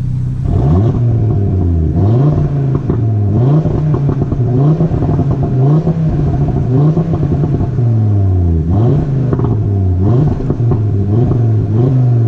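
Audi TT RS turbocharged five-cylinder engine revved repeatedly while stationary, through an aftermarket Ego X exhaust with its valves open. Its pitch climbs and falls again in about eight to ten quick blips.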